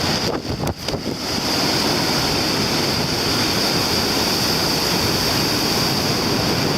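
Rough surf pounding and strong wind buffeting the microphone, a steady loud roar with a short lull under a second in. The sea and wind are stirred up by an approaching typhoon.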